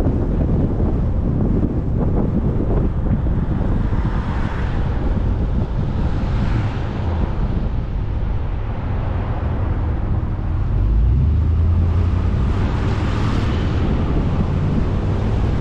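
Road and wind noise of a vehicle on the move, picked up by a dash cam: a steady low rumble that grows louder about eleven seconds in.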